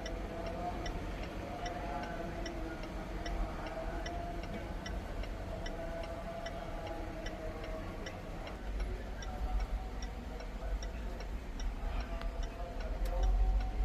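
Regular ticking, about two and a half ticks a second, from the Range Rover SVR's indicator relay, over a low steady rumble.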